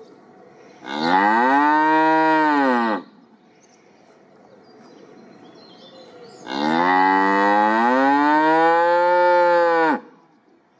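Cattle mooing: two long moos a few seconds apart. The first lasts about two seconds and the second about three and a half. Each rises and then falls in pitch.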